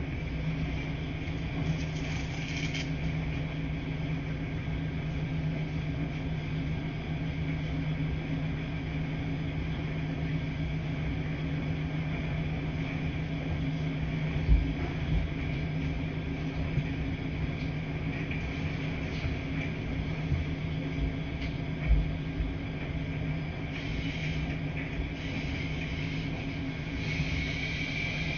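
Washing machines running with a steady low hum, with two dull low thumps about halfway through and again later.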